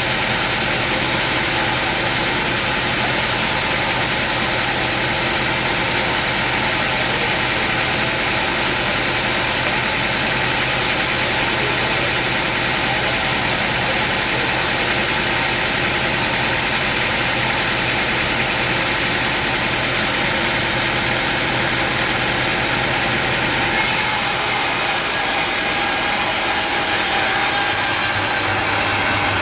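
Sawmill machinery running steadily with an even, engine-like drone. The sound changes abruptly about 24 seconds in.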